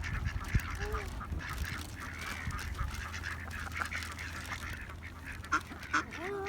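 A flock of ducks calling as they crowd in to be fed bread: a dense chatter of short calls, with a louder drawn-out call about a second in and another near the end.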